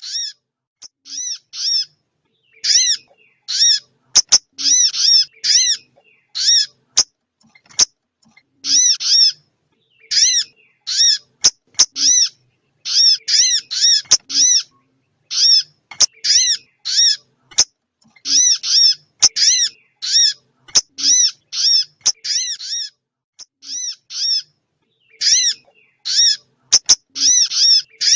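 Lure recording of small songbird calls: short, high, arched chirps in quick clusters of two to four, repeating with short pauses, with occasional sharp clicks between them.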